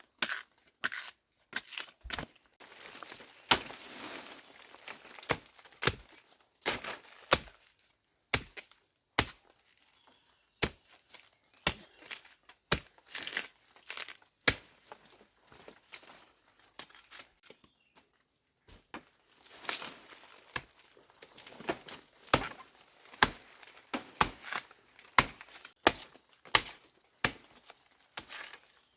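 Repeated sharp knocks or chops at an irregular pace, roughly one or two a second, over a faint steady high tone.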